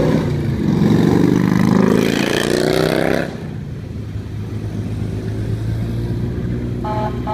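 Truck engine accelerating with its pitch rising, loud for about three seconds, then settling to a lower steady drone. A horn toots near the end.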